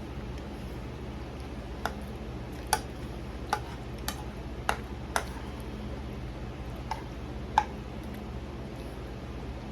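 An eating utensil clinks against a dish, about eight sharp, irregular clicks with short rings, over a steady low hum.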